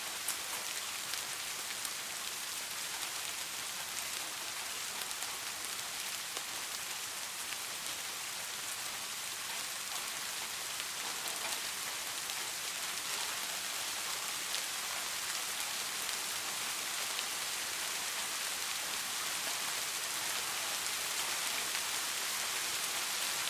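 Steady rain falling and pattering on a surface, an even hiss with many small scattered drop ticks.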